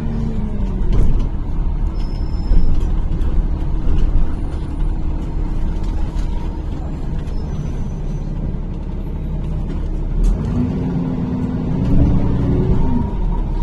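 NefAZ-5299 city bus driving, heard from inside the cabin: a steady low rumble of engine and road. The engine pitch drops near the start, then rises and falls again about ten seconds in as the bus changes speed.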